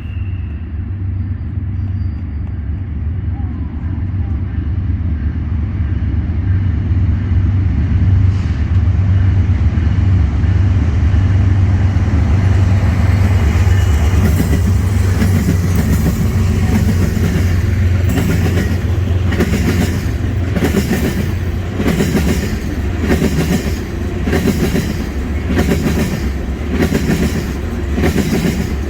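Diesel-hauled petroleum tanker train passing: a heavy low engine rumble that grows louder, then the tank wagons rolling by with a regular clickety-clack of wheels over rail joints, a steady beat a little slower than once a second.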